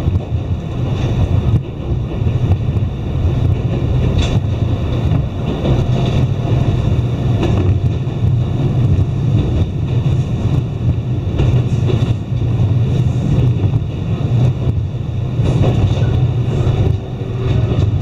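Iyo Railway Takahama Line electric train running at speed, heard from inside the passenger car: a steady low rumble of wheels on rail, with a few sharp clicks.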